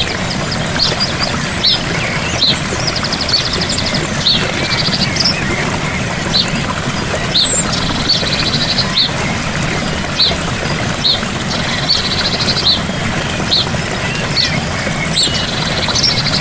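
Steady rush of a gentle waterfall, with a bird calling over it: a short high chirp about once a second and, every few seconds, a rapid buzzy trill.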